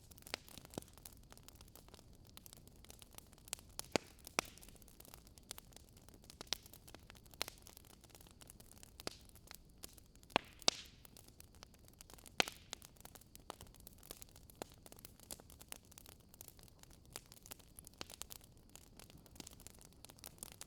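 Firewood crackling as it burns in a fireplace: irregular sharp pops and snaps over a soft steady hiss, with a handful of louder snaps scattered through.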